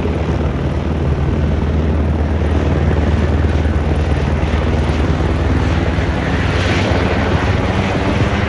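Light firefighting helicopter flying close by, its rotor chop and turbine running steadily and loudly.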